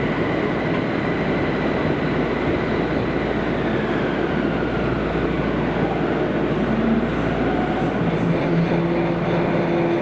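Kobe City Subway 5000-series linear-motor train running through the tunnel, heard from inside the car. A motor whine falls slowly in pitch as the train slows for the next station, and a steady low hum comes in near the end.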